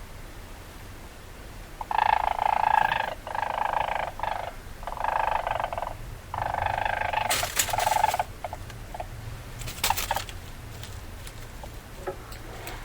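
Weasel calling: a run of about five calls, each under a second long, starting about two seconds in. A few sharp clicks follow.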